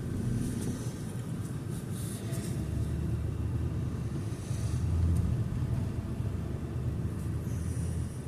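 Low, steady road and engine rumble of a car driving, heard from inside the cabin, swelling briefly about five seconds in.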